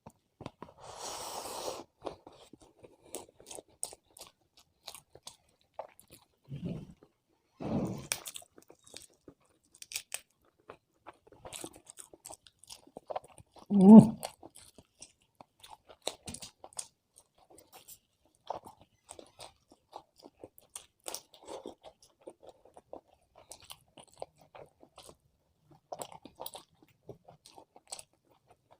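Close-miked chewing and biting of food: many small wet mouth clicks and crunches, with a short rustle near the start and a few louder low thuds, the loudest about fourteen seconds in.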